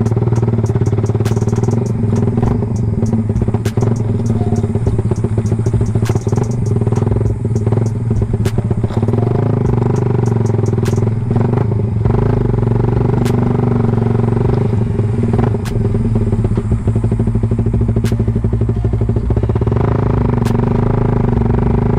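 Suzuki Raider 150 Fi's single-cylinder fuel-injected engine running loud and steady at a constant speed through an open CHA aftermarket exhaust pipe on a stock ECU, with occasional sharp ticks.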